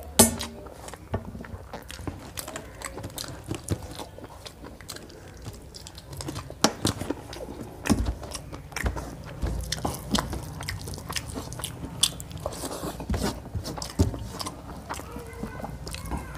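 Close-miked chewing of rice and chicken curry, with many short wet clicks and smacks from the mouth and from fingers mixing the food on a steel plate.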